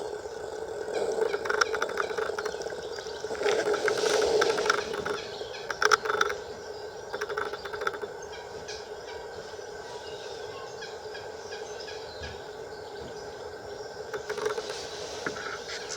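Birds calling: a steady background chorus of waterfowl, with short high chirps from small birds coming in bunches, a few seconds in and again about six seconds in.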